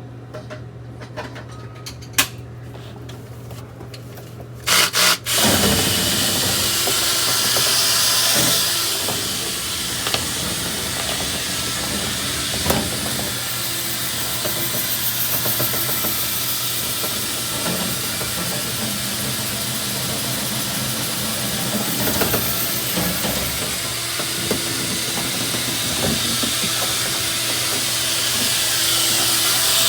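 A few sharp clicks, then about five seconds in a dryer vent cleaning machine starts and runs steadily with a loud hiss.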